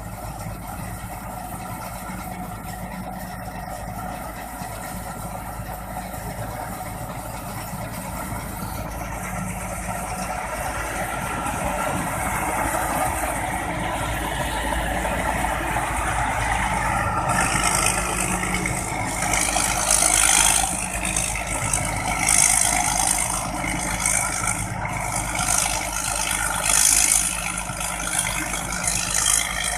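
Rice combine harvester running, its engine hum growing steadily louder, with a rattling hiss from the threshing and cutting gear joining in about two-thirds of the way through.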